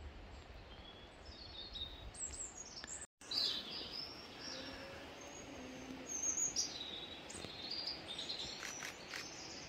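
Small songbirds chirping and calling, many short high notes over faint outdoor background noise, briefly cut off about three seconds in.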